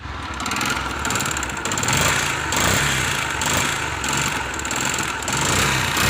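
Yamaha Enticer motorcycle's single-cylinder four-stroke engine running with a rattling 'kat kat kat' noise. The mechanic traces the noise to a scored piston.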